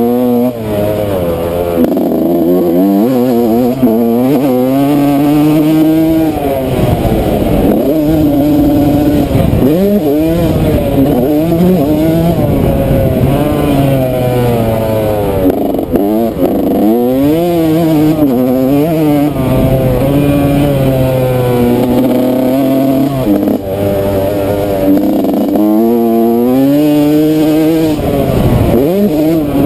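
Yamaha YZ125 two-stroke motocross engine revving hard, its pitch repeatedly climbing and then dropping as the rider shifts gears and rolls off, with no steady stretch.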